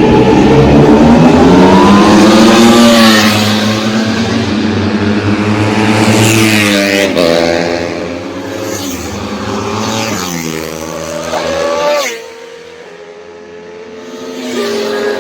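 Ducati Panigale V4's V4 engine and exhaust revving hard as the bike is ridden, its pitch climbing and falling several times. It drops back sharply about twelve seconds in and picks up again near the end.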